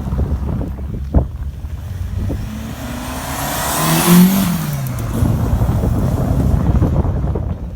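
A car engine running, with one car coming close about four seconds in: its engine note climbs to a peak and then falls away. A sharp knock about a second in.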